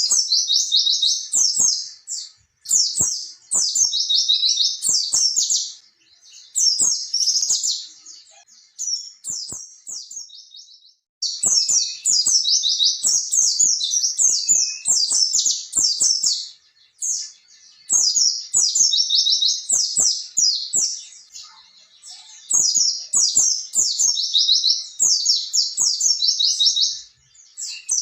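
White-eye (pleci) singing long, fast rolling runs of high chirps, several seconds at a time with short breaks between.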